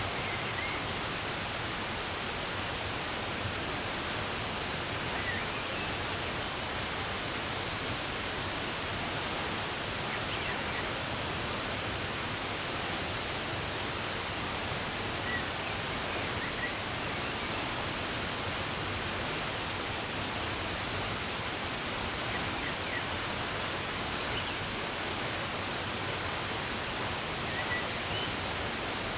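Running water rushing steadily, with faint, brief bird chirps scattered over it every few seconds.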